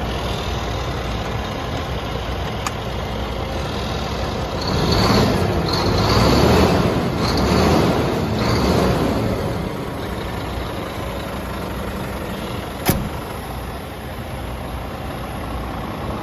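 Scania R400 truck's six-cylinder diesel engine running at idle, louder for a few seconds in the middle, with a single sharp click near the end.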